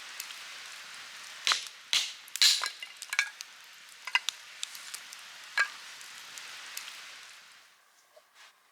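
Wood fire burning, a steady hiss with sharp crackles and pops from the split firewood, fading out near the end.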